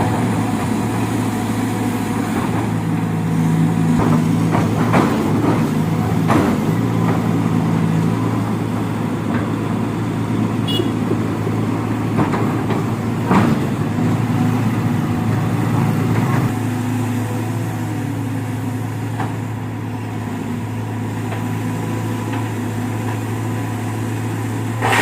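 Dump truck's diesel engine running steadily while it spreads a load of stone, with a few short knocks over the engine.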